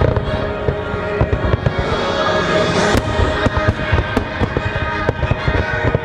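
Fireworks exploding in rapid, overlapping bangs over the show's music soundtrack.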